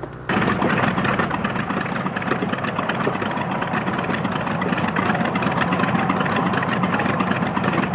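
Twin radial piston engines of a Douglas DC-3 running steadily, a dense engine noise with a fast even pulse that cuts in abruptly just after the start.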